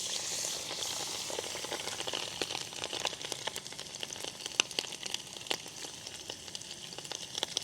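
Rice-paper-coated shrimp deep-frying in hot oil. A steady sizzling hiss starts suddenly, loudest in the first second, and is dotted with many sharp crackling pops.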